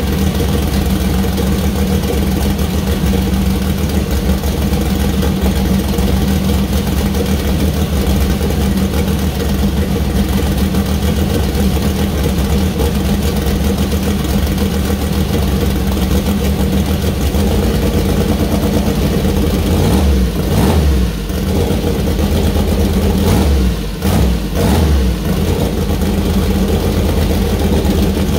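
Newly built 427 cubic inch turbocharged LS V8 with a solid-roller camshaft, running on its first start-up. It idles steadily and loudly, then the note dips and changes a few times in the last third.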